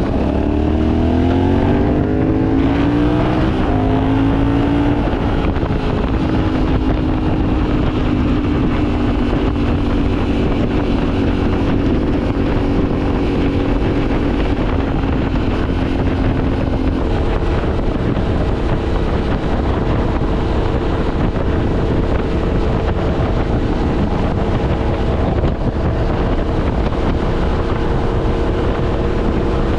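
Yamaha Ténéré 700's parallel-twin engine, a used replacement engine, pulling up through the revs for the first few seconds and then cruising at steady revs. The engine note changes about halfway through, with wind noise on the microphone throughout.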